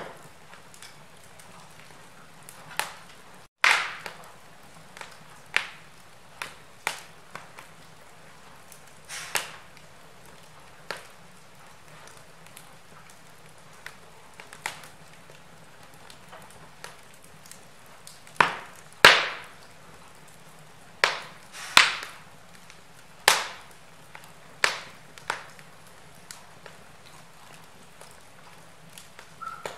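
Wood fire crackling in a fireplace: irregular sharp pops and snaps over a low steady hiss, with a run of louder pops about two-thirds of the way through.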